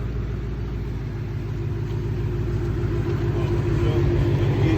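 Jeep Grand Wagoneer's swapped-in 5.3 L Chevy V8 running through a custom single exhaust with a Vibrant bottle resonator: a steady low rumble that grows gradually louder over the second half.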